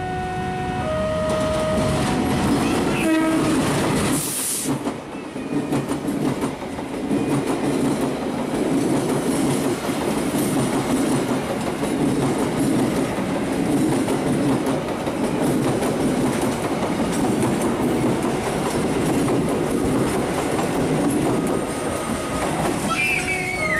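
An electronic level-crossing alarm sounds alternating chime tones while a diesel passenger train approaches, and the locomotive's horn sounds briefly about three seconds in, followed by a short hiss. The train then runs past, its wheels rumbling and clacking over the rail joints, and the crossing alarm tones come back near the end.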